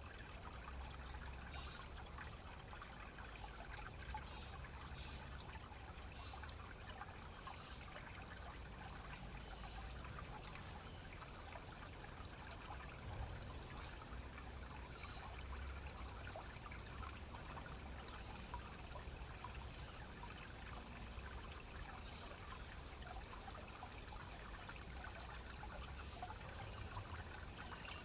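Small clear stream trickling and gurgling steadily over stones, with a faint low rumble underneath.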